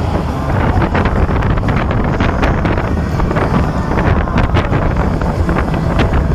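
Wind rushing over the microphone as an indoor roller coaster train runs at speed, with a steady low rumble from the train.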